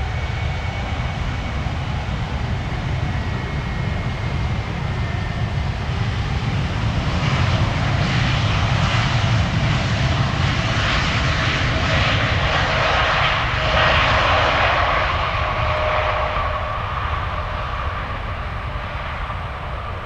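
Jet airliner engines passing close by, a rushing noise with a steady whine that swells to its loudest about 8 to 15 seconds in, then fades.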